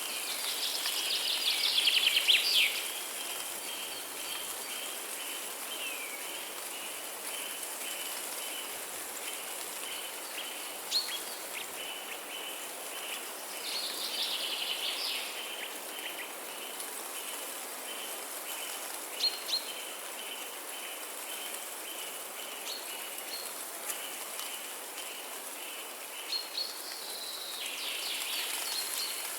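Forest birds singing over a steady hiss: a loud trilled song three times, near the start, midway and near the end, a fast run of short repeated high notes throughout, and a few short sharp chirps in between.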